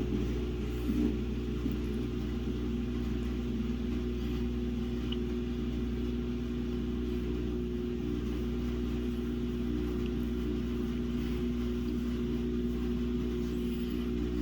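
Samsung WA50R5200AW top-load washing machine running with a steady motor hum, several even tones held without change.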